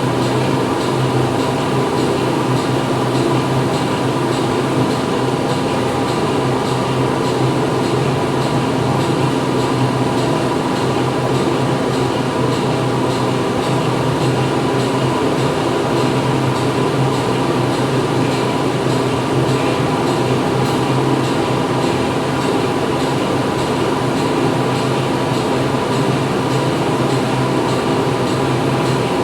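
Factory machinery running steadily: a continuous mechanical din with several steady hums layered over it, unchanging throughout.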